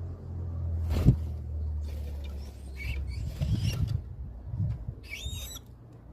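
A small bird giving short, high squeaky calls: a few faint ones near the middle and a clearer call with pitch bending up and down about five seconds in, over a low rumble. A sharp knock about a second in is the loudest sound.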